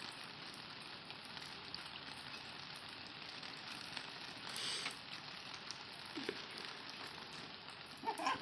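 Steady rain hiss, with a brief louder rush about halfway through.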